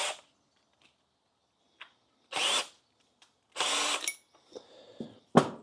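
Power drill run in a few short bursts of under a second each, with silent gaps between.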